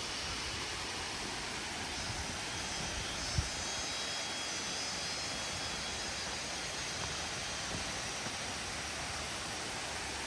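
Steady rush of flowing water from the falls and stream, with a single dull thump about three and a half seconds in.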